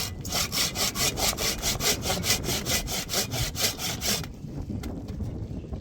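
Hand saw cutting wood in quick, even strokes, about five a second, stopping about four seconds in.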